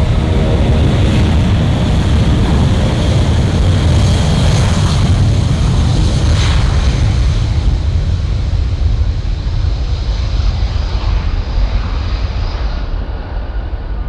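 Douglas DC-8 freighter's four jet engines at takeoff power: a loud, steady roar with a high whine, slowly fading and losing its high end as the aircraft climbs away.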